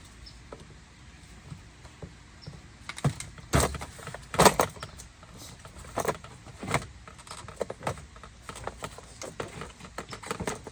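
Plastic retaining clips of a Lexus IS300 door panel popping loose as the panel is pulled off the door: a string of sharp snaps and knocks, loudest a few seconds in, followed by lighter clicks and rattles as the panel is handled.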